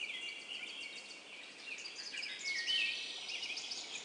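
Birdsong ambience: many small birds chirping and twittering at once, in short high notes that rise and fall.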